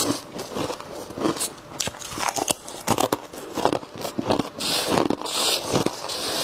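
Close-up crunching as a mouth bites into and chews freezer frost, irregular crisp crunches several times a second.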